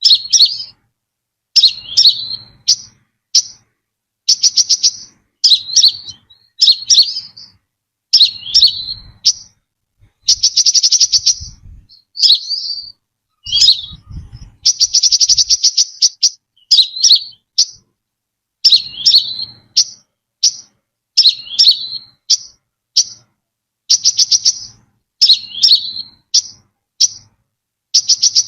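Brown-throated sunbird calling: clusters of short, sharp, high notes, many sliding downward, alternating with rapid buzzy trills a second or two long, repeated over and over.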